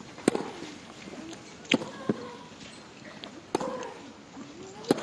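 Tennis ball struck by rackets four times in a baseline rally, about one and a half seconds apart, with short vocal grunts from the women players on their shots.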